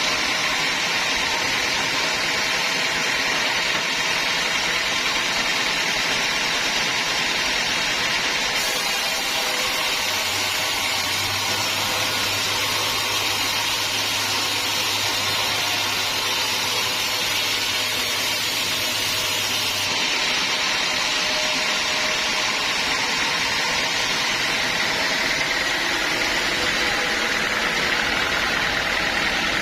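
Sawmill machinery running steadily, a motor and saw noise with no pauses. A low hum joins in between about ten and twenty seconds in.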